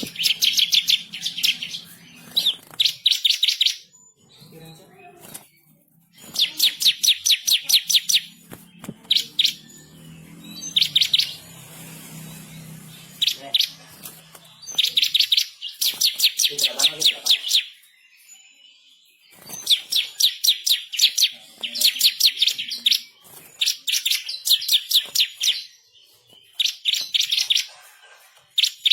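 Bar-winged prinia singing vigorously in repeated bursts of rapid, high, sharp chirps, each volley about one to two seconds long, with short pauses between.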